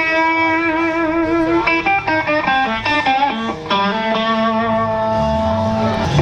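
Live band music at a sound check, led by an electric guitar playing long held and bent notes.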